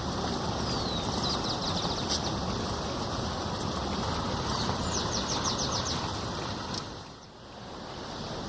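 Rushing water of a waterfall as a steady, even rush. A bird sings rapid trills of quick repeated high notes over it, twice: about a second in and about five seconds in.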